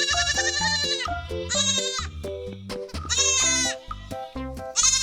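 Young goat kid bleating about four times, the first call long and quavering, the others shorter, over background music with a steady beat.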